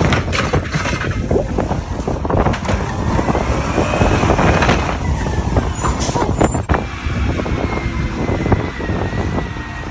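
Garbage truck running, with heavy rumbling and a steady stream of clanks and knocks, and a thin whine that drifts up and down in pitch through the middle.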